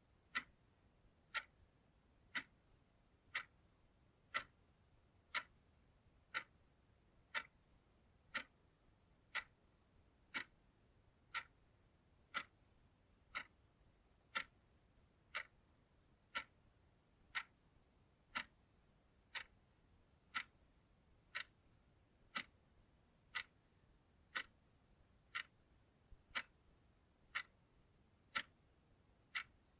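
Clock ticking steadily, one crisp tick about every second.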